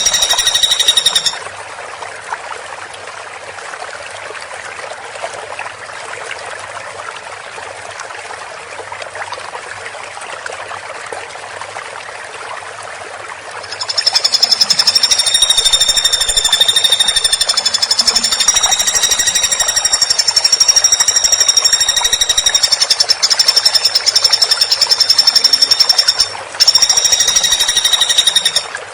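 Woodpecker giving rapid, high-pitched rattling trills: a short one at the start, a long one lasting about twelve seconds from about halfway, and another short one near the end. A steady water-like hiss fills the gaps.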